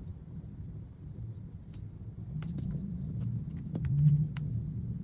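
Faint clicks and taps of small reed plates and tools being handled at a workbench, over a steady low rumble.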